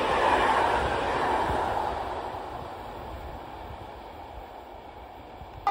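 A passenger train running through the station, its wheel and rail noise fading steadily as it moves away.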